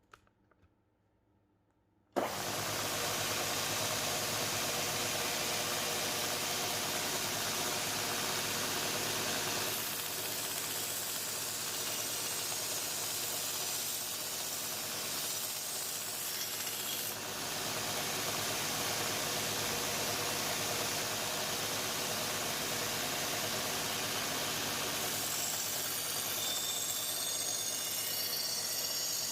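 Electric abrasive machine running steadily with the hiss of axe-head steel against the abrasive; it starts abruptly about two seconds in, and the hiss changes character several times as the contact shifts.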